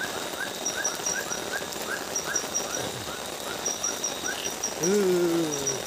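Night forest chorus over a steady hiss of rain: a run of short rising chirps about four a second, with a high, rapidly pulsing insect trill in bursts. Near the end a man's voice sounds one long falling note.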